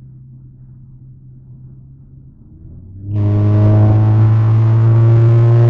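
Volkswagen Jetta 2.0 TSI's turbocharged four-cylinder engine droning low at cruise, then about three seconds in jumping suddenly to a loud, sustained engine note under hard acceleration, as for an overtake.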